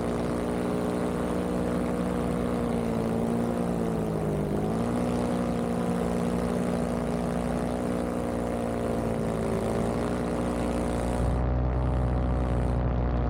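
Vittorazi Moster 185 single-cylinder two-stroke paramotor engine running with its propeller, a steady buzzing drone. The pitch dips briefly about four seconds in, then holds steady.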